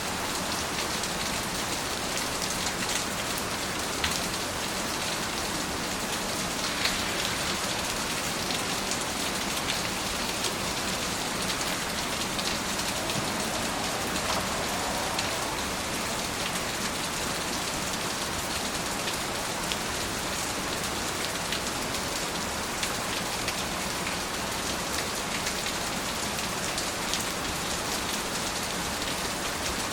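Steady rain falling, with the patter of individual drops on surfaces.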